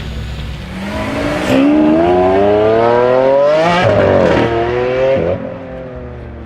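Audi RS3 8V's turbocharged five-cylinder engine through a Milltek straight-pipe exhaust, accelerating hard with the pitch rising steadily for about three seconds. A gear change about four seconds in breaks the note, then it pulls briefly again and eases off.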